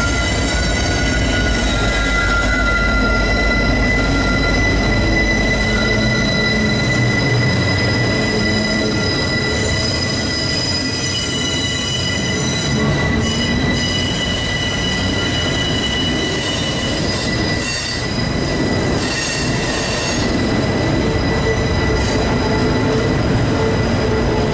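A Norfolk Southern mixed freight train rolls past close by. Deep diesel locomotive rumble fades over the first few seconds as autorack cars follow, their steel wheels squealing on the rails in steady high tones over a continuous rolling roar.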